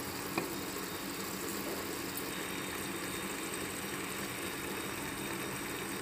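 Masala paste with turmeric and salt frying gently in oil in an aluminium pressure cooker over a gas flame: a steady low sizzle with a faint hum, and one light tap about half a second in. The oil has separated from the masala, the sign that it is well fried.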